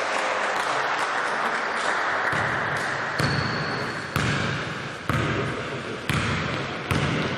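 Basketball being dribbled on an indoor court: steady hall noise at first, then the ball bouncing about once a second from about three seconds in.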